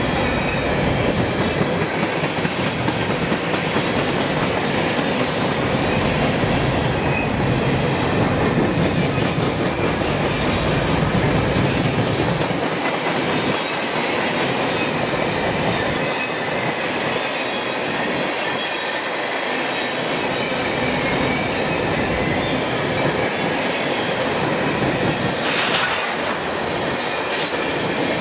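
Freight train of covered hopper cars rolling past at speed: a steady rumble and rattle of steel wheels over the rails, with a faint high wheel squeal.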